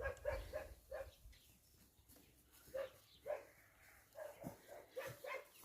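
A dog barking in short, fairly faint barks, several in quick succession near the start, a couple around the middle and another run near the end.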